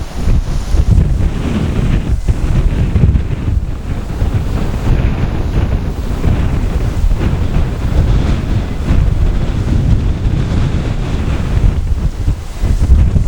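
Strong, gusty wind buffeting the microphone, a loud rumbling noise that swells and dips.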